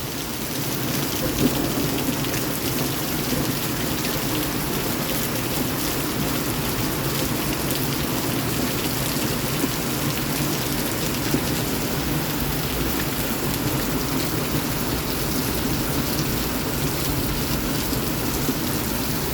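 Heavy rain pouring down steadily, an even dense wash of rain hitting surfaces.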